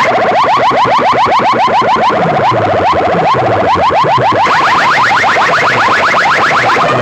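Loud electronic siren-like chirping effect played through a large DJ speaker system: a rapid, continuous string of rising chirps, with deep falling sweeps underneath through the middle.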